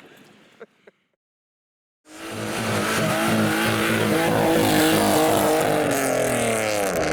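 A modified car's engine revving hard as it accelerates away, its pitch climbing, with a dip and rise near the end like a gear change. It cuts in suddenly about two seconds in, after a brief dead silence.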